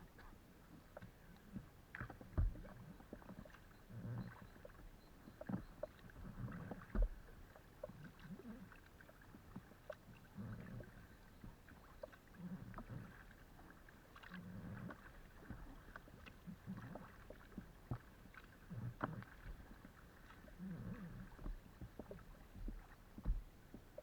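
Faint paddle strokes on a kayak, the blades dipping and pulling through the water every second or two, picked up through a camera mounted on the hull of a Decathlon Itiwit X500 inflatable kayak. Now and then there is a sharp knock.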